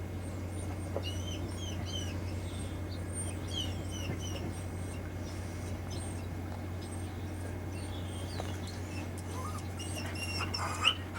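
Small birds chirping, many short high calls scattered throughout with one louder chirp near the end, over a steady low hum.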